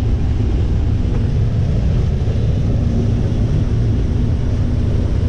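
Combine harvester running steadily while harvesting corn: a loud, even low drone, with a faint steady hum joining about two seconds in.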